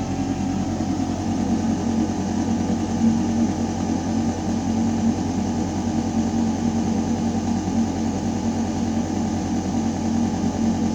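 Building ventilation system running with a steady, low mechanical hum and the rush of air moving through metal ductwork.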